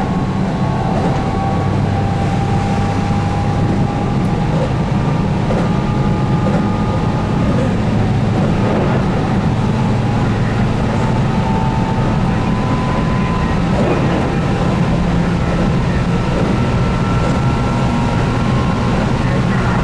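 Keihan 8000 series electric train running at speed, heard from inside the car: steady rumble of wheels on rail under a DC traction motor whine whose tones climb slowly as the train gains speed.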